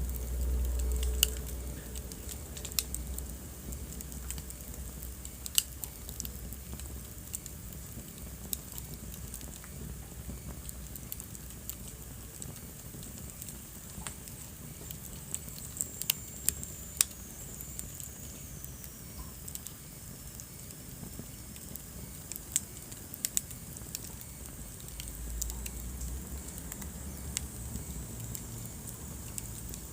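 Wood fire burning in a fireplace: scattered sharp pops and crackles over a low rumble of the flames. About halfway through, a faint high whistle slides downward.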